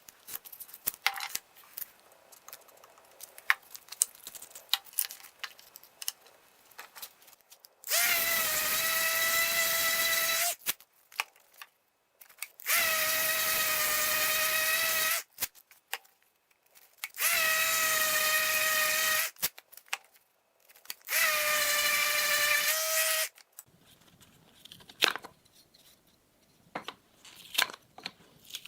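Power drill running in four short runs of about two seconds each, a steady whine that starts and stops sharply, with small clicks and knocks of handling between and before them.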